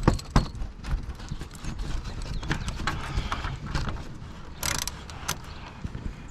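Ratchet clicking and metal tool knocks in irregular bursts while T30 Torx screws on a Ford Focus ST's underbody splash shield are worked loose, with a brief rasp about three-quarters of the way through.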